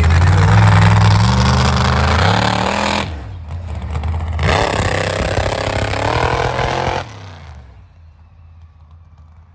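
Race truck engines revving hard, the pitch climbing and dropping as the throttle works, with a short lull about three seconds in; the engine noise cuts off suddenly about seven seconds in, leaving a much quieter background.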